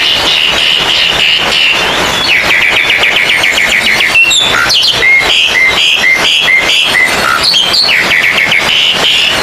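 Oriental magpie-robins (kacer) singing loudly over one another: fast chattering trills throughout, and near the middle a run of evenly repeated clear notes, about two or three a second.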